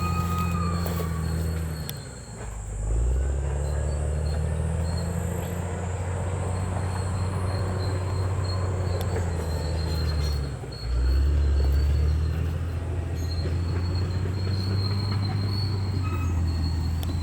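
Crawler bulldozer working, its diesel engine droning low while the steel tracks squeal. The engine note drops briefly twice, about two seconds in and near eleven seconds, then comes back up.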